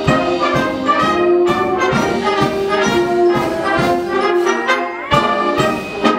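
Instrumental break of an orchestral song, with brass carrying the tune over a steady beat.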